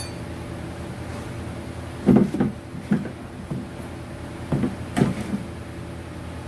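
A string of light knocks and clunks, about seven in all between two and five and a half seconds in, as of objects being handled or set down, over a steady low hum.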